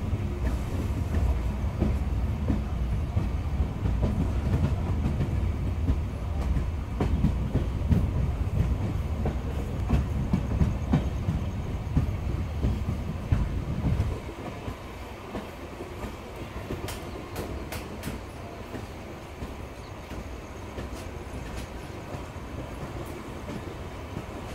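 Passenger train running on the rails, heard from aboard: a steady low rumble with the clickety-clack of wheels over rail joints. About halfway through the rumble drops suddenly and a quieter rolling sound carries on as the train runs along the station platform.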